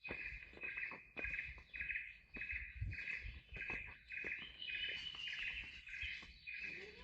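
An animal call repeating steadily about twice a second, each pulse short and high, with irregular footsteps and scuffs along a trail underneath.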